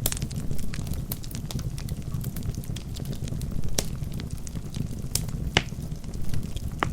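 Wood fire burning in a fireplace: a steady low rumble of flames with irregular sharp crackles and pops from the logs, a few louder pops in the second half.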